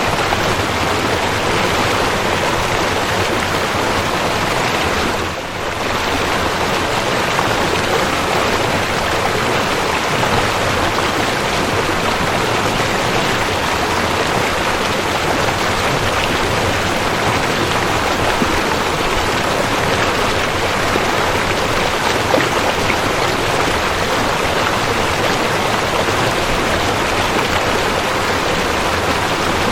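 Waterfall: a steady, even rush of falling water, with a brief dip in level about five seconds in.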